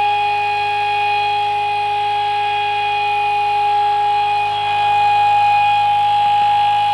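Homemade pulse motor running flat out under full load, its four alternator coils shorted out: a loud, steady whine holding one pitch, with the coils firing at around 410 hertz.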